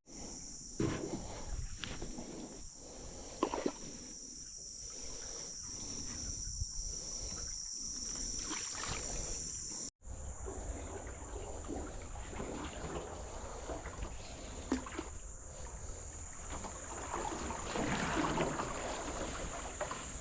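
Steady high-pitched insect chorus, like crickets or katydids, with irregular soft knocks over it. The sound drops out for an instant about halfway through.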